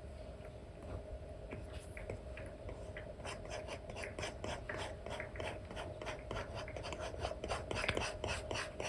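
Stylus nib scratching over a paper-like screen protector on a tablet in short brush strokes, a few at first, then quick repeated back-and-forth strokes from about three seconds in. A faint steady hum lies underneath.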